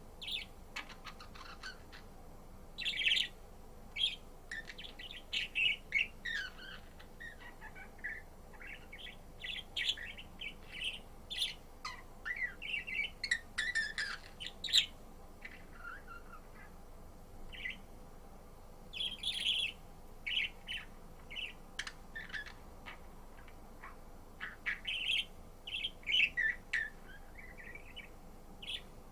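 Budgerigar chirping and chattering in quick clusters of short, high notes, with brief pauses between bouts.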